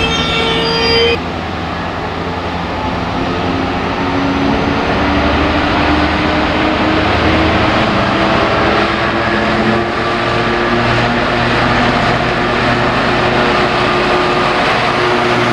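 Train passing with its engine running steadily. A high squeal stops about a second in.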